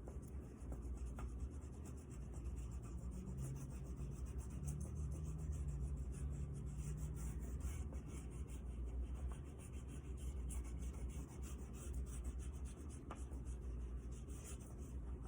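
Orange oil pastel being rubbed back and forth across paper in short strokes: a continuous scratchy rubbing.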